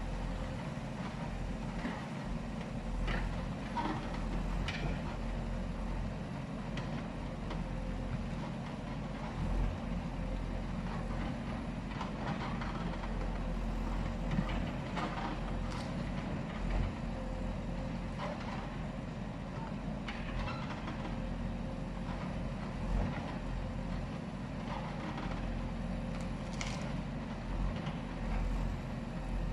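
Heavy vehicle engine running steadily, with a few short knocks and clatters scattered through.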